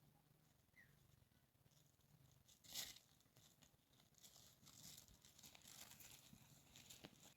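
Faint rustling and crackling, irregular, with a louder crackle about three seconds in and denser rustling through the second half.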